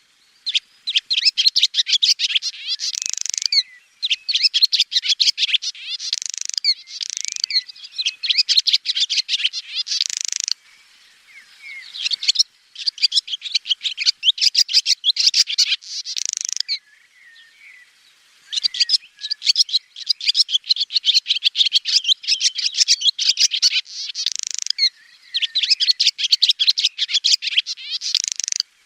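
Swallow song: phrases of rapid, high twittering and chirps, each a few seconds long, with short pauses between them.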